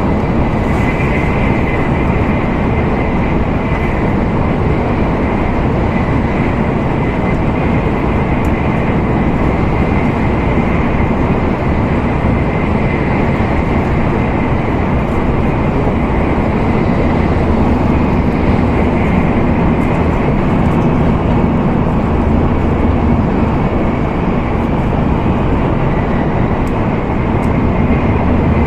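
Steady running noise inside the cabin of an N700A Tokaido Shinkansen at speed: an even rush of wind and rolling noise with a faint high whine.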